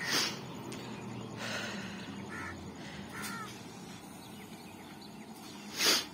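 BEML-built electric multiple unit train rolling slowly toward the platform with a low, steady rumble. Over it a crow caws loudly twice, once just after the start and again near the end, with fainter bird calls in between.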